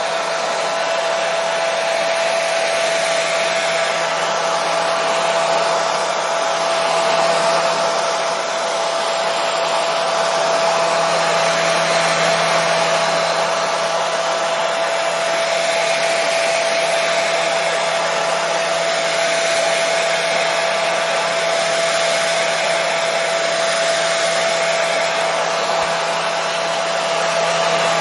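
Hair dryer running continuously: a steady rush of blown air with a constant motor hum, used as white noise.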